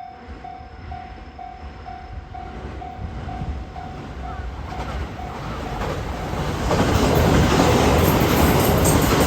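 Level-crossing warning bell ringing about twice a second as a 521-series electric multiple unit approaches the crossing. The train's running noise grows steadily louder until it drowns out the bell, and it is loudest from about two-thirds of the way in.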